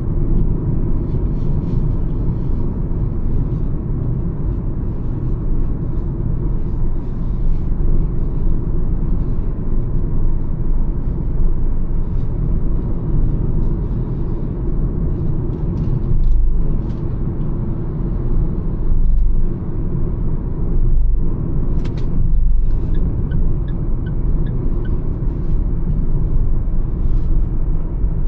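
Mahindra XUV 300 cruising on a highway: a steady low rumble of engine, tyre and road noise. A few brief dips in the rumble come late on, with a single sharp click just after twenty seconds.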